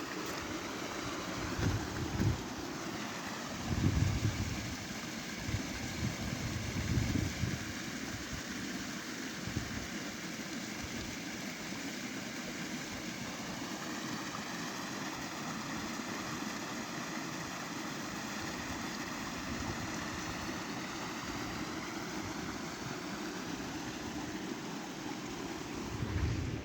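Steady rain falling, an even hiss throughout, with gusts of wind buffeting the microphone in the first several seconds.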